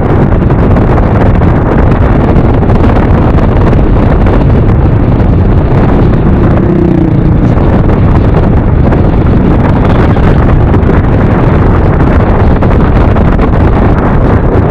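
Heavy wind buffeting on the microphone of a rider on a moving motor scooter, with steady road and engine noise underneath. A brief pitched tone sounds about six seconds in.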